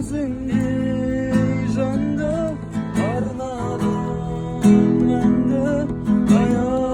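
Acoustic guitar strummed in a steady rhythm, accompanying a Kazakh song, with a singing voice coming in on some phrases.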